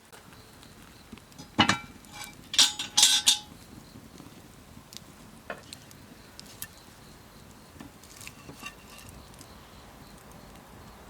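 Cast-iron Dutch oven being handled: one sharp knock, then a quick run of loud metallic clanks with a short ring, like the lid being set on and shifted. A few faint clicks follow.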